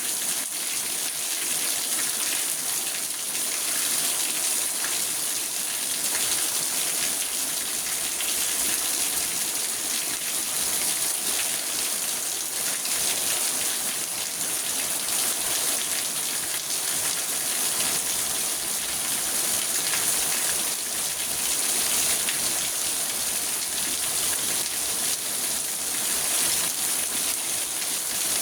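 Steady rain drumming on a car's roof and windows, heard from inside the car: a dense, even hiss of many small drops.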